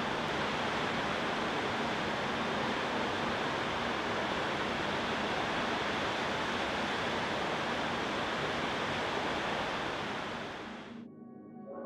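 Steady rushing of water, an even noise with no distinct events, fading out about eleven seconds in as ambient music with held tones comes in.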